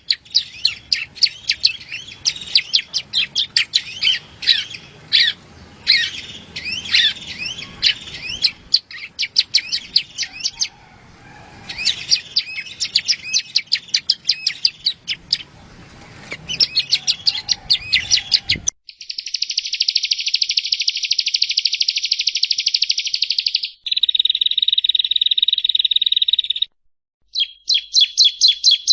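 Prenjak rowo (yellow-bellied prinia) song: long runs of rapid, sharp chirps. Nearly 19 s in it cuts abruptly to a cleaner recording of continuous fast trills, then a short break and more rapid chirps near the end.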